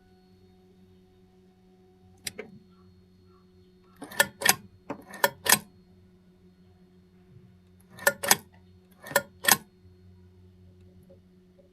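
Sharp mechanical clicks, mostly in quick pairs, as the Bimota BB1's controls are worked just before a cold start, over a faint steady hum. The engine is not yet running.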